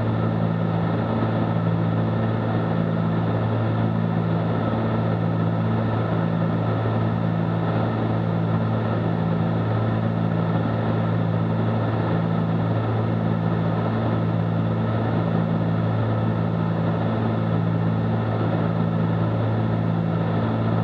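Cabin drone of a Cessna 310Q twin in cruise-descent: its two six-cylinder piston engines and propellers running steadily, with a slow, regular throb about once a second.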